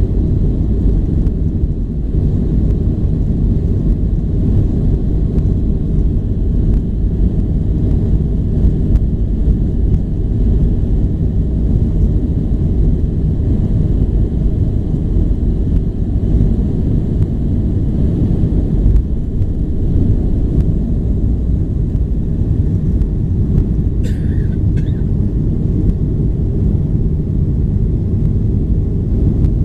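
Steady, loud low rumble of a Boeing 737-800's CFM56 engines and the airflow, heard from inside the passenger cabin. A brief double tone sounds about 24 seconds in.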